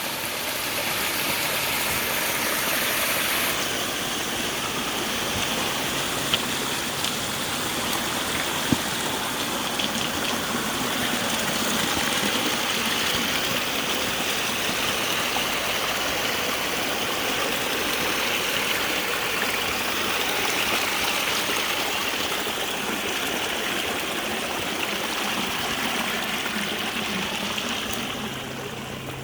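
Water rushing steadily over the waterfalls and rapids of a pump-fed stone garden stream, an even continuous rush, with two brief clicks about six and nine seconds in.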